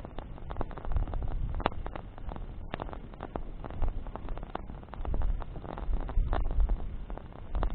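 Wood bonfire crackling, with irregular sharp pops and snaps over a low rumble.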